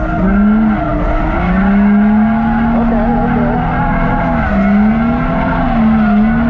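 Nissan 350Z's V6 engine running hard, its pitch dipping and climbing again several times as the throttle is worked, with tyres squealing through a drift, heard from inside the cabin.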